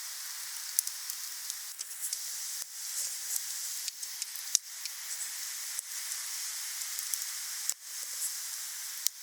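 Wood fire burning: a steady hiss with scattered sharp crackles and pops.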